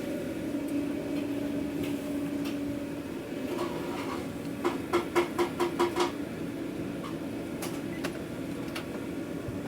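A quick run of about six short electronic beeps from a card payment terminal during checkout, over the steady hum of the food truck's equipment.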